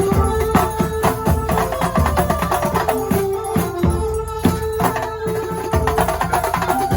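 Kuntulan, Banyuwangi folk music: hand drums and percussion beat a dense, busy rhythm under a held melodic line.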